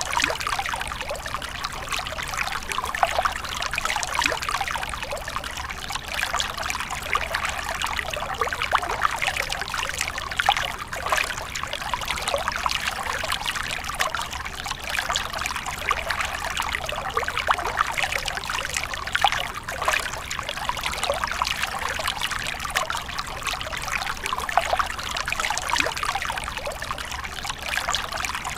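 Running water trickling and splashing steadily, an unbroken flow with many small splashes.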